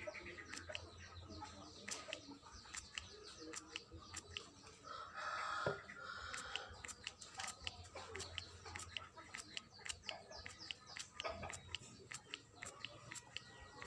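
Birds calling, with one louder call about five seconds in, over a steady run of sharp clicks about three a second.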